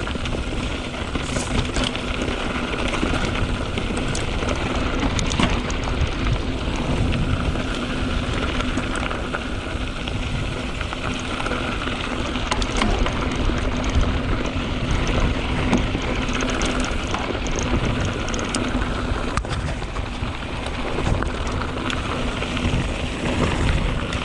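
2021 Canyon Spectral 7 mountain bike descending dry, loose dirt switchbacks: tyres crunching and sliding over loose soil and gravel, with steady rushing noise and frequent small clicks and knocks as the bike rattles over rough ground.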